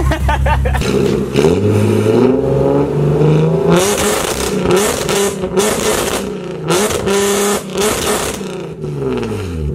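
Nissan 370Z's 3.7-litre V6 revved from idle, heard from behind the car at the exhaust: the engine note climbs and falls several times, with loud harsh bursts between about four and eight and a half seconds in, then drops back toward idle near the end.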